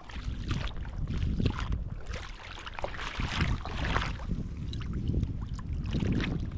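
Wind buffeting the microphone in uneven gusts over the wash of surf.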